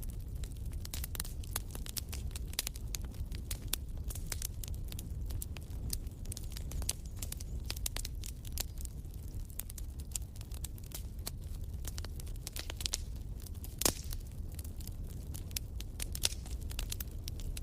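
Wood fire crackling in a fireplace: irregular sharp pops and snaps over a low steady rumble, with one louder pop about fourteen seconds in.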